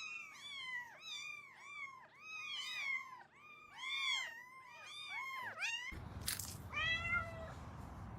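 Cat meowing over and over in short mews that rise and fall in pitch, about three a second. After a click, one more drawn-out mew that falls in pitch.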